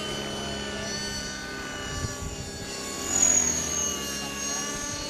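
Align T-Rex 500 electric RC helicopter in flight: a steady whine from its motor and gears over rotor noise, swelling louder for a moment about three seconds in.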